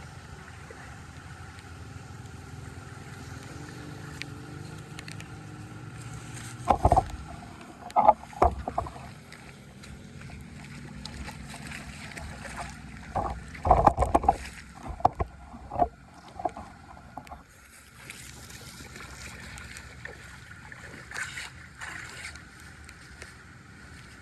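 Steady rush of drain water, broken by a few clusters of loud, sharp knocks and splashes: one about seven seconds in, a longer run around fourteen seconds, and lighter ones near the end.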